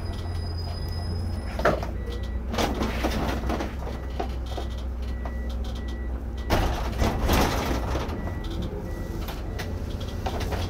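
Irisbus Récréo II coach engine running low and steady, heard from the driver's cab, with a faint short tone repeating about twice a second. Two louder bursts of hissing noise come about 3 s and 7 s in.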